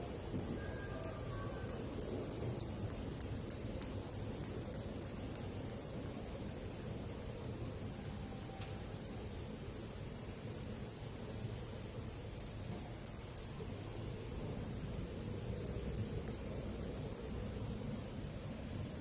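A steady, high-pitched insect trill, crickets or similar night insects, with runs of short, sharp, very high chirps about three a second that come and go: a long run at the start and two brief runs later.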